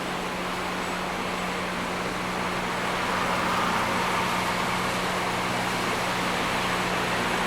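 Rail grinder running: a steady engine hum under a broad rushing noise, growing louder about three seconds in.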